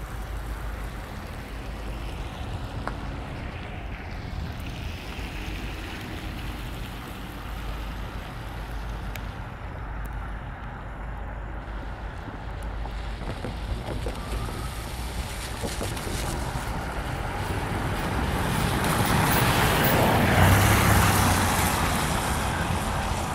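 EMD F40FH diesel-electric locomotives hauling a train, a steady low rumble that grows louder, loudest about twenty seconds in, as the train draws near.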